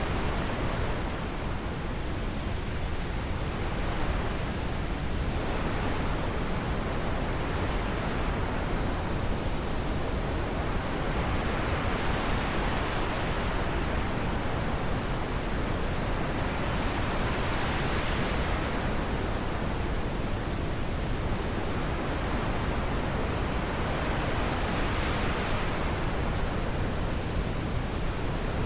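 Wind blowing through trees, a steady rush that swells and eases in slow gusts every few seconds.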